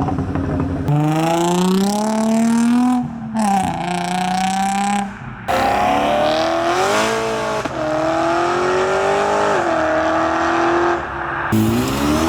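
Car engines accelerating hard away, the engine note climbing in pitch through each gear and dropping at the gear changes, several times over.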